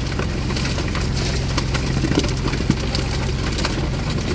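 An engine running steadily at a low idle, with scattered small clicks and knocks over it.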